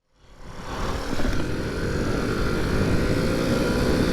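Honda C90's small single-cylinder four-stroke engine running at a steady pace on the move, with wind rumbling on the microphone. The sound fades in over about the first second.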